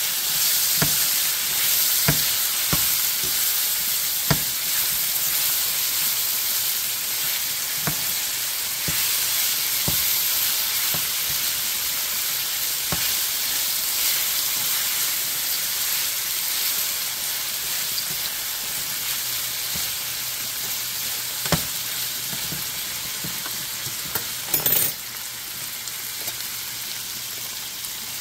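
Onions, sweet peppers, tomatoes and saltfish sizzling in a metal frying pan, with a fork clicking and scraping against the pan now and then as they are stirred. There is a short louder clatter about 24 seconds in, and the sizzle is a little softer after it.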